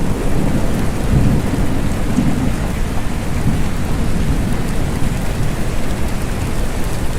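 Steady rain, with fine drop ticks over a continuous low rumble that does not let up.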